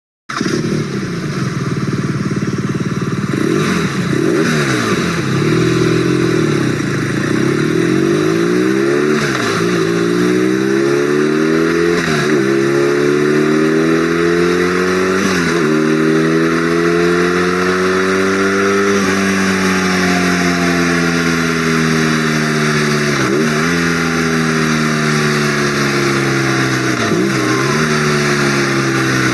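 BMW R nineT Scrambler's 1170 cc boxer-twin engine running under way. Its exhaust note climbs steadily in pitch, drops briefly about every three to four seconds, then climbs again, as when shifting up through the gears. In the second half the pitch eases down slowly, with a few more quick dips.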